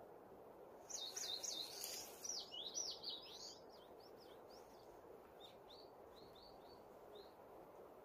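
A songbird singing: a loud run of quick rising-and-falling whistled notes starting about a second in, then softer short repeated notes, over a steady low background rush.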